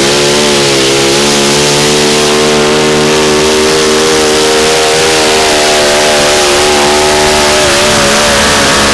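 Modified mini rod pulling tractor's engine held at full throttle under load, a loud steady howl whose pitch wavers slightly.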